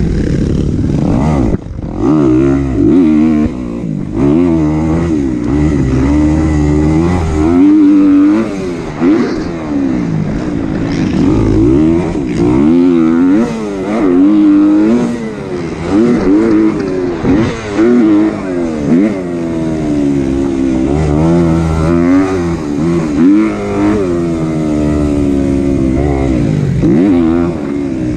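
Kawasaki KX250 four-stroke single-cylinder motocross engine under hard throttle, its pitch rising and falling over and over as the rider opens the throttle, backs off and shifts through the gears around the track.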